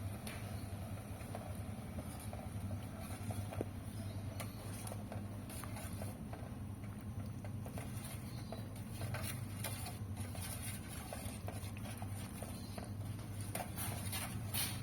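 Eating sounds at a meal of fish meatball soup: scattered small clicks and taps of spoons and bowls and of chewing, over a steady low hum.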